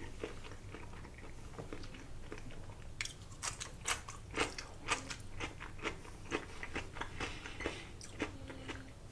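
Close-miked chewing of sushi. It is soft for the first few seconds, then from about three seconds in comes a run of crisp crunches and wet mouth clicks, roughly two a second.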